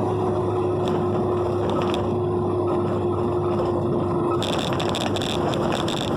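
Steady road rumble and engine hum of a vehicle driving through heavy rain. About four seconds in, a dense crackling patter of rain hitting the car joins it.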